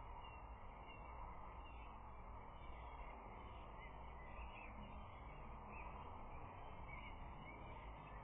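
Outdoor ambience from a nest-camera microphone: a steady low hiss with faint, scattered calls of distant birds.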